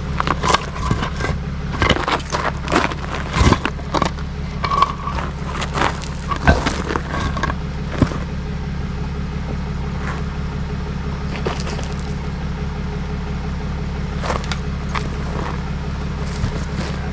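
A vehicle engine idling steadily, with a run of sharp knocks and scrapes over the first eight seconds or so and only a few after.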